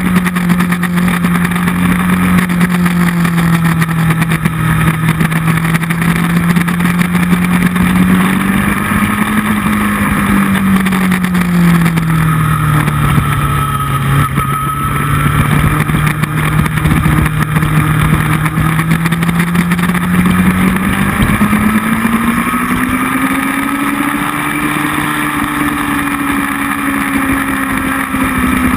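Motorcycle engine at speed on a race track, recorded onboard, its note rising and falling slowly with the throttle over a steady rush of wind.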